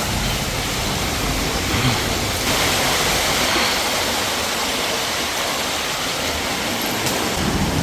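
Steady rush of flowing water, a stream or small waterfall running over rocks.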